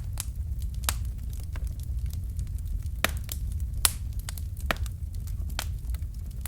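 Fireplace fire crackling: irregular sharp pops and snaps over a low steady rumble, with the loudest pop about four seconds in.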